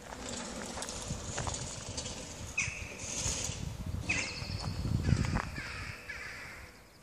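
Harsh bird calls: one a little under three seconds in and another just after four seconds, then a few shorter curved calls around five seconds, over low thumping footsteps.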